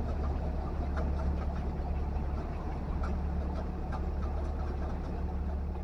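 Heavy machinery's diesel engine running steadily with a low drone, with faint light ticks and rattles over it.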